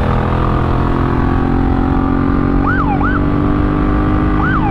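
Honda Africa Twin CRF1000L police motorcycle's parallel-twin engine running under way, its revs easing slightly. Over it the bike's police siren is blipped in short up-and-down sweeps: a pair about two and a half seconds in, and more starting near the end.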